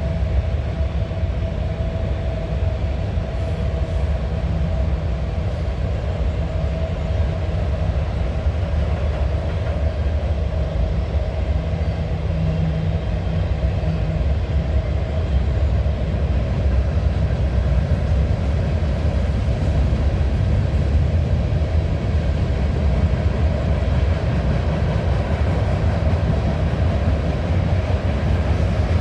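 A long train rolling past with a steady low rumble that does not change.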